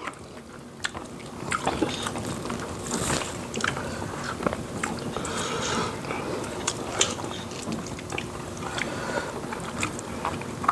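Close-miked chewing and lip smacking of fufu, soup and meat eaten by hand, with many small wet clicks and squishes from fingers and mouths.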